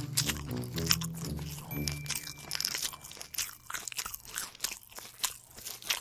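Crunching and chewing of fried pig's feet eaten by hand, a dense run of short crackling bites and crunches. There are a few low notes in the first two seconds.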